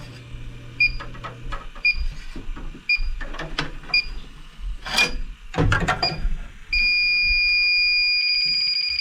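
Electronic refrigerant leak detector beeping about once a second, then going into a steady high tone and rapid beeping near the end as the detector dies. A few handling knocks fall in between.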